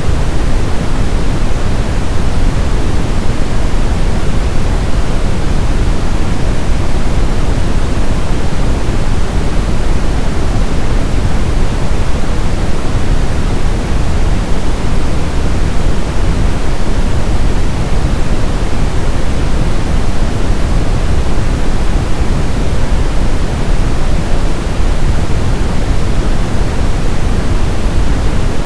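Steady brown noise: a constant, deep rushing hiss, strongest in the bass and falling away toward the treble, with no change.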